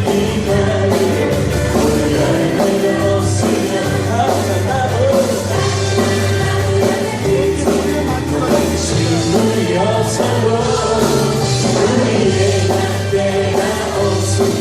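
Praise band playing a worship song with singing over a full band accompaniment and a steady bass line.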